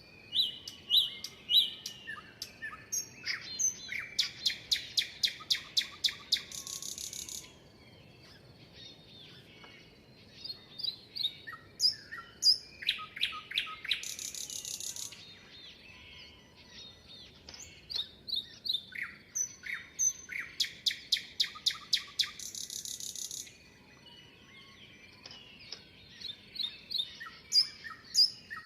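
Songbirds singing. A song phrase comes three times, about every eight seconds: a quick run of repeated loud chirps that ends in a short buzzy trill. Softer scattered chirps fill the gaps between phrases.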